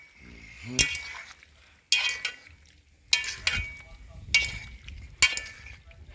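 Metal spoon stirring food in a cooking pot and knocking against its side, about five ringing clinks roughly a second apart.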